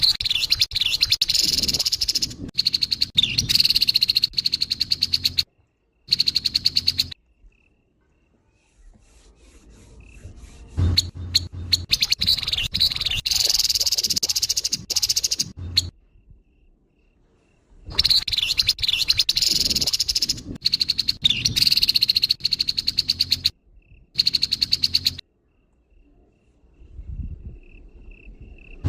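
Grey-headed babbler giving its harsh call, a dense, rapid high-pitched chatter in repeated bursts of one to five seconds separated by short pauses. A faint thin whistle sounds in some of the pauses.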